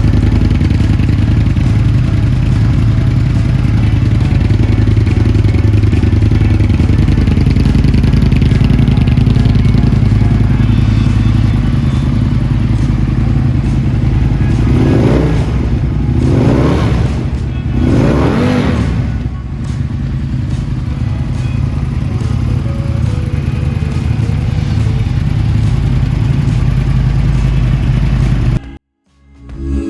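Aprilia Tuono 1000 motorcycle engine running through Delkevic twin end-can exhausts, idling steadily and then blipped three times in quick succession about halfway through. The sound cuts off abruptly near the end.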